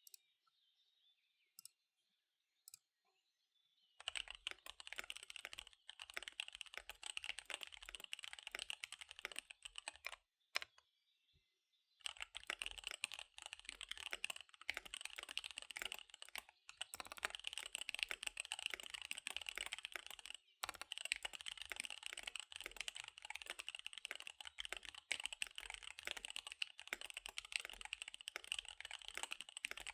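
Fast typing on a KBD75 V3 mechanical keyboard with SP-Star Dark Magic Girl tactile switches and DSA keycaps. A few lone keystrokes come first, then rapid continuous key clatter from about four seconds in. There is a short pause near the middle, then steady fast typing again.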